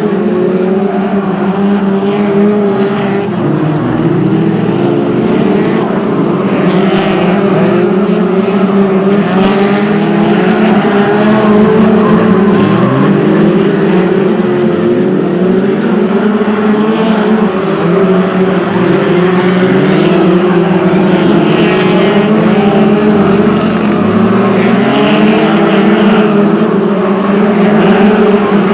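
Several BriSCA F2 stock cars racing, a steady pack drone of engines with many overlapping revs rising and falling as cars accelerate, lift and pass.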